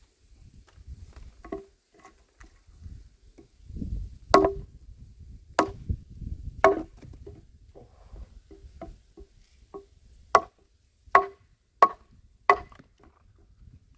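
Handmade axe chopping wood: sharp, heavy chops with a short ringing knock, three spaced strikes, then four quicker ones near the end, with lighter taps between.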